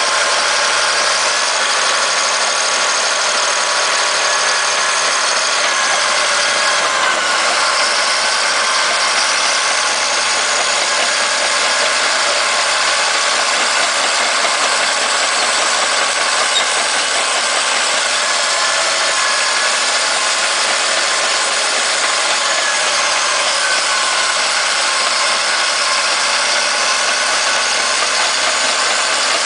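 Caterpillar D7H bulldozer's diesel engine running steadily, with a faint high whine over it that drifts slightly in pitch.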